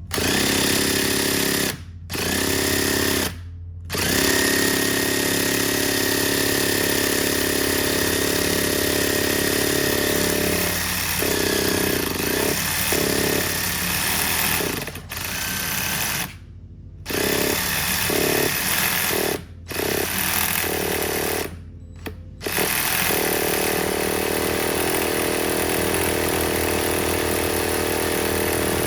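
Traxxas Nitro Sport's small glow-fuel engine being spun over by a powered starter in long, loud bursts with several short breaks. The engine does not catch: a nitro engine that gets fuel but will not fire.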